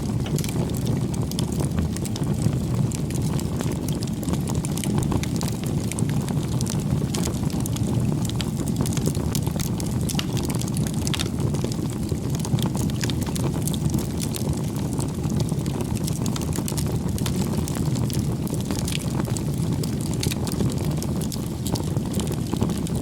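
Wood bonfire burning with a steady low rumble of flame and frequent sharp crackles and pops from the burning wood.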